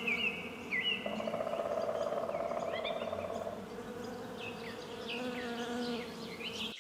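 Bee buzzing steadily, growing louder from about one to three and a half seconds in, with short high chirps repeating behind it.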